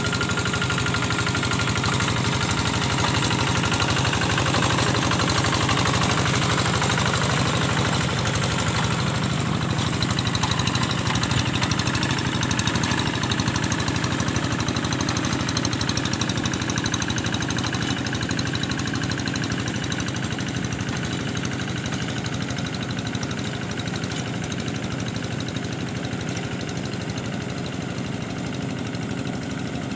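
An engine running steadily at an even speed, easing off slightly in loudness over the last part.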